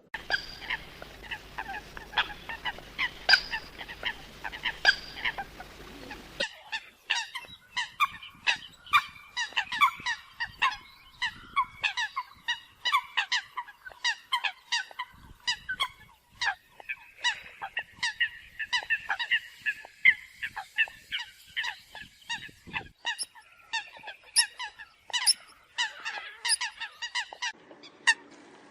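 Eurasian coots calling: a dense run of short, sharp honking calls from several birds, recorded as a lure track for trapping. About six seconds in the recording changes abruptly and a low background hum drops out.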